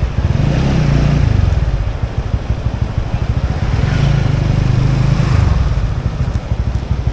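Motorbike engine running under way, its note rising twice as the throttle opens: about a second in, and again around four to five seconds in, with a rapid low rumble throughout.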